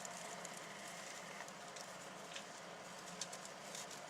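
Pet mice moving about faintly in their tank: a few light ticks and scratches over a low steady hum.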